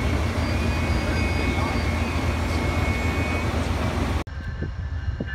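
Loud, steady low rumble of an Amtrak train with Superliner cars at the platform, with faint high whines over it. It cuts off abruptly about four seconds in, and a quieter station ambience follows.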